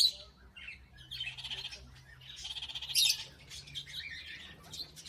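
Parrot squawking: a harsh call right at the start and another loud squawk about three seconds in, with softer chattering calls between and after.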